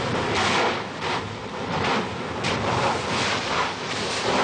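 Gas-charged basalt lava erupting from a vent: a loud rushing noise that swells and falls in irregular surges.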